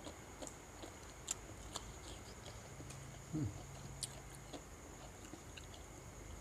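Faint eating sounds: scattered small clicks and chewing while a shrimp and seafood meal is eaten, with a brief low murmur about halfway through.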